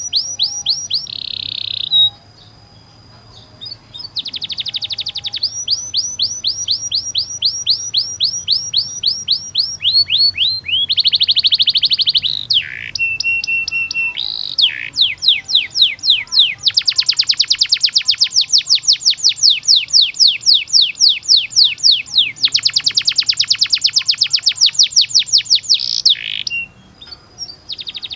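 Canary singing long rolls: runs of rapidly repeated downward-sweeping notes alternating with faster buzzing trills, plus a short steady whistled note near the middle. The song breaks off briefly about two seconds in and again near the end.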